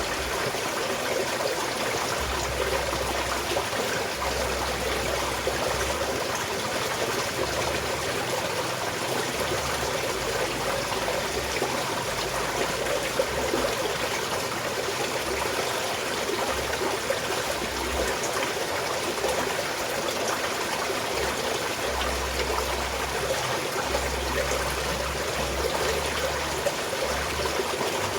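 Small mountain stream flowing steadily, water trickling and splashing over stones.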